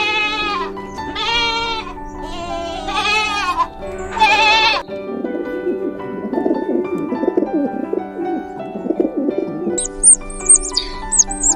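Bleating: four wavering calls in the first five seconds, then a low warbling sound, and a bird chirping quickly near the end, all over steady background music.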